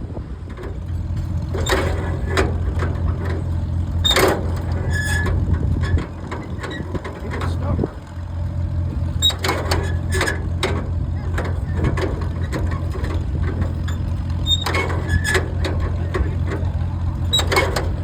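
An engine running steadily, with bursts of clatter and knocks every few seconds.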